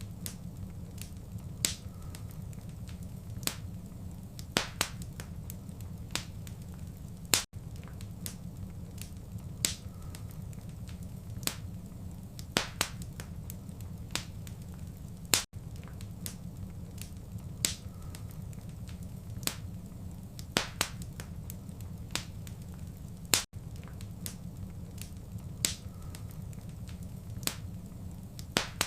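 Wood fire crackling with irregular sharp pops over a steady low rumble. The same stretch of about eight seconds repeats over and over, with a brief dropout at each join.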